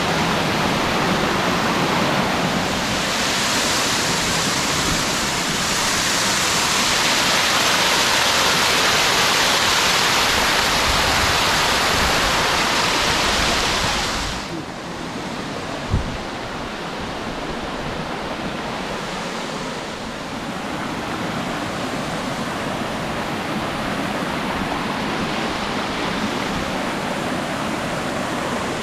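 A waterfall's water rushing steadily. It is loud for about the first half, then drops suddenly and runs on quieter, with a single sharp knock shortly after the drop.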